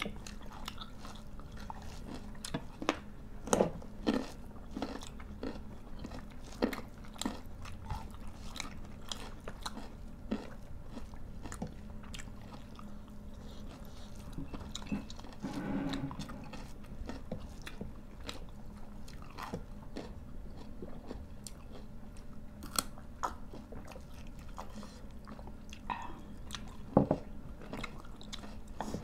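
People chewing and biting into food by mouth, with crisp crunches of raw vegetables such as carrot, and irregular wet clicks and smacks.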